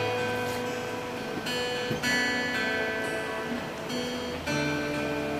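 Acoustic guitar playing the intro of a song, sustained chords with a new chord about every two seconds, before the vocals come in.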